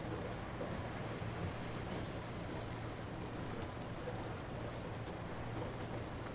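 Light rain falling steadily, with a low continuous rumble under it and scattered faint drop ticks.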